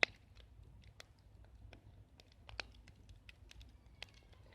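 Wood campfire crackling: burning firewood snapping and clicking at irregular intervals, the sharpest snap right at the start.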